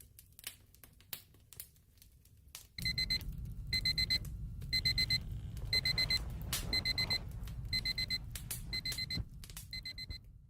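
Fireplace crackling; about three seconds in, a digital alarm-clock timer starts beeping in quick groups of beeps about once a second, along with a low rumble. The alarm signals the end of a pomodoro study session.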